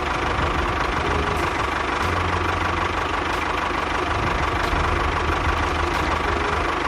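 An engine idling steadily with a fast, even pulse, just after starting.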